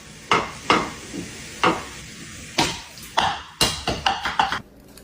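A series of sharp knocks, about nine in five seconds, irregularly spaced and coming closer together in the second half.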